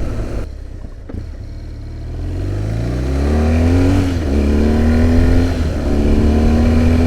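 2005 BMW R1200GS boxer-twin engine accelerating on the road: its pitch climbs, drops at a gear change about four seconds in, then climbs again. It pulls smoothly with no misfire, the quarter-throttle miss cured by new ignition coils.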